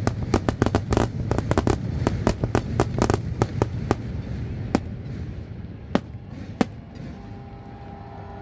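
Fireworks display: a rapid volley of sharp bangs, several a second, thinning out to a few scattered bangs over a fading low rumble.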